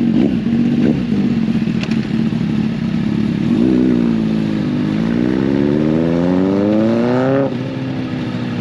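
Mini motorcycle engine running steadily, then revving up in a long rising pull of about three seconds before dropping back suddenly to a steady run near the end.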